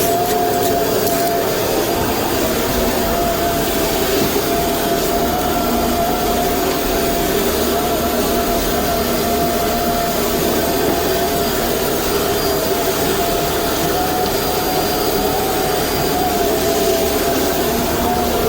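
Shop vacuum running steadily with a high, even motor whine.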